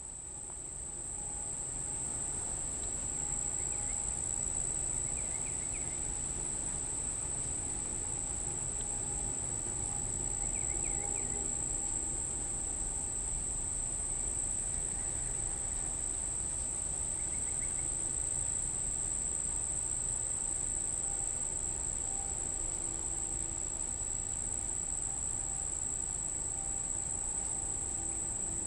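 An insect singing a continuous, very high-pitched monotone that holds steady without a break. The singer is an insect the recordist could not identify.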